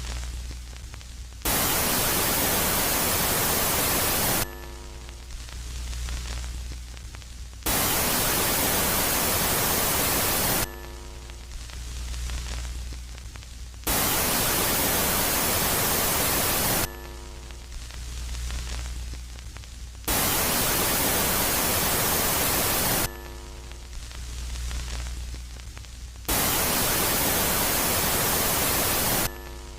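Space-ambience track presented as the sound of Jupiter's moon Megaclite, swinging between a quiet and a loud phase about every three seconds. The loud phase is a burst of even static hiss that starts and stops abruptly. The quiet phase is a low hum with faint steady pitched tones.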